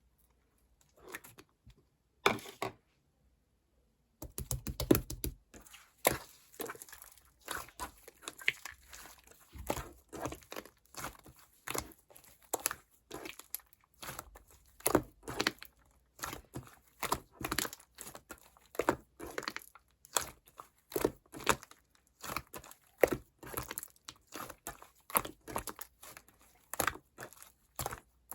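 Slime being squeezed, folded and stretched by hand, making wet clicking and popping crackles as air pockets burst. After a few brief squishes and a short pause, the clicking runs on in quick bursts from about four seconds in.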